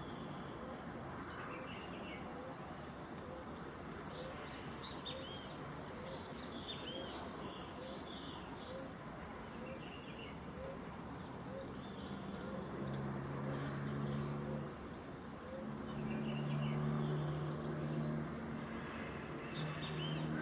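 Dawn chorus of many small birds chirping and calling over one another. A low short note repeats steadily, about once every second, for the first half. A low droning hum comes in about halfway and is loudest near the end.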